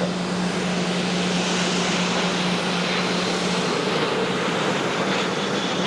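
Dassault Falcon 50 business trijet passing with a steady jet-engine roar that swells and then eases, a steady low hum underneath.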